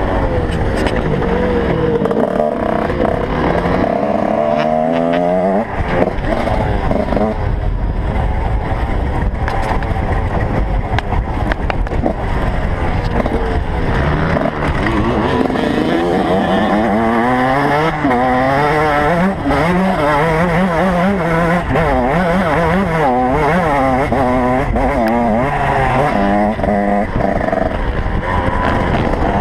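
Several motocross motorcycle engines revving hard and dropping back again and again. Their pitches overlap and rise and fall throughout.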